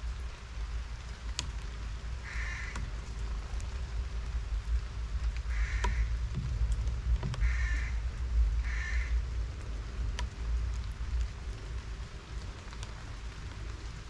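A bird off in the background giving four short, harsh, caw-like calls a few seconds apart, over a steady low rumble. A few faint sharp ticks come between the calls.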